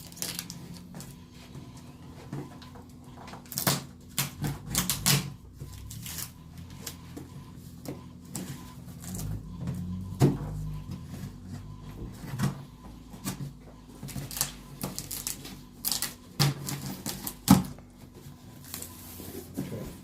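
Packaging and cardboard boxes being handled and opened: irregular clicks, taps and rustles, over a faint steady hum.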